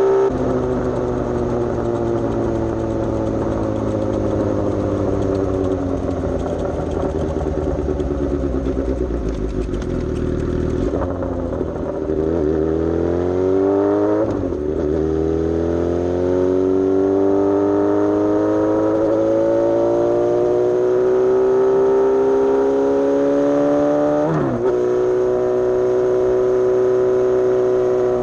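Suzuki GSX-S750's inline-four engine under way: the engine note falls steadily as the bike slows for the first ten seconds or so, then climbs again, with a gear change about halfway and another near the end, after which it holds a steady cruising note.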